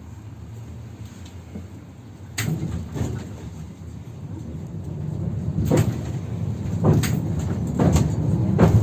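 Interior of a 71-608KM tram: a sharp knock about two seconds in, fitting the sliding doors closing, then the tram pulls away and its low rumble grows louder. Wheels clack sharply over rail joints on badly worn track.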